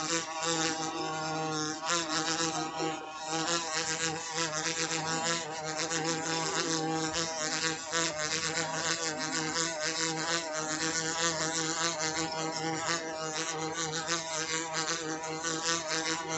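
Continuous insect-like buzzing that wavers up and down in pitch, with a fine crackle running through it and no pauses.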